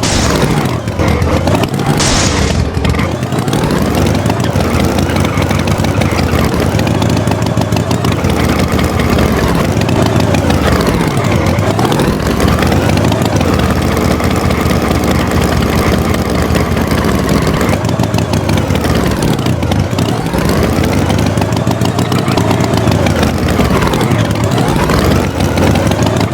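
A motor vehicle engine revving up and down over and over, its pitch rising and falling in slow swells every few seconds.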